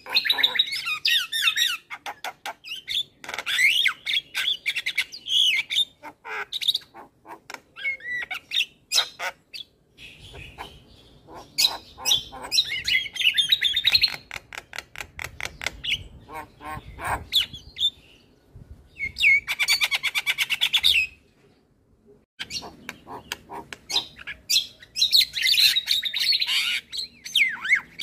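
Male Javan myna singing a varied, mimic-filled song of harsh squawks, chirps and whistled notes in bursts, with a fast rattle of clicks about two-thirds of the way through and short pauses between phrases.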